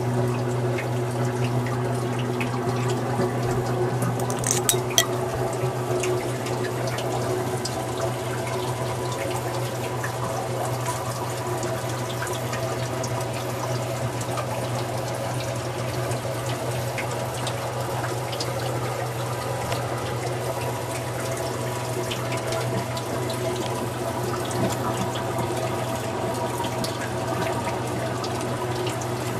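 Ford Crossflow 1.8-litre four-cylinder engine running at a steady speed on an engine dyno, a steady low drone. A few sharp clicks about five seconds in.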